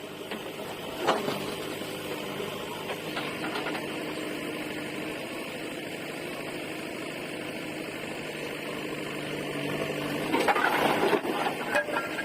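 JCB 3DX backhoe loader's diesel engine running steadily, with a sharp knock about a second in and a louder stretch of knocking and scraping near the end as the bucket works the brick debris.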